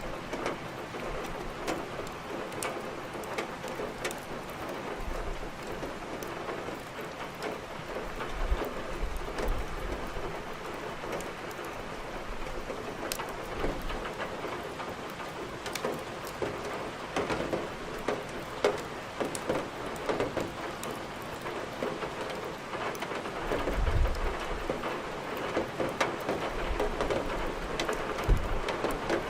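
Steady rain with the crackle of burning firewood in a fireplace: a constant hiss dotted with many small sharp pops. Short low rumbles come in about two-thirds of the way through and again near the end.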